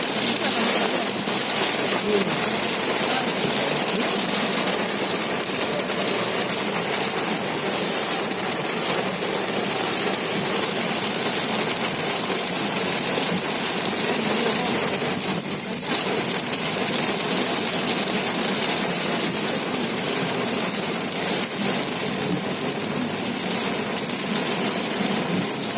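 Rain falling steadily: an even, continuous hiss that eases briefly for a moment just past the middle.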